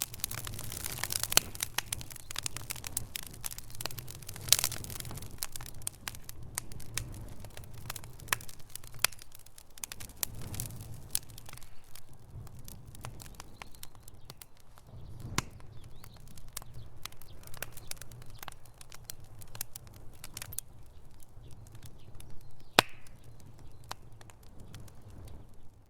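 Wood fire in a fireplace crackling and popping over a low steady rumble of the flames. The crackles come thick and fast for the first several seconds, then thin out to scattered pops, with one sharp, louder pop near the end.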